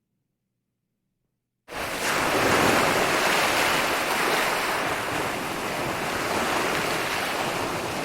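Dead silence, then a little under two seconds in a steady rushing noise starts abruptly and holds evenly.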